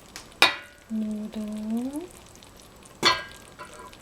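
Two sharp clinks of a serving utensil knocking against dishware while food is plated, one shortly after the start and one about three seconds in, each with a brief ring.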